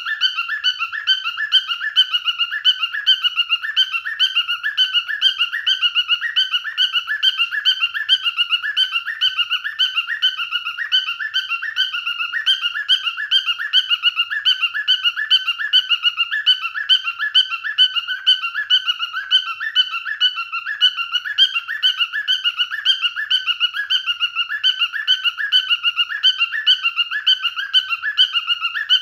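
Cockatiel screeching: short, shrill calls repeated rapidly and evenly, a few a second, without a break.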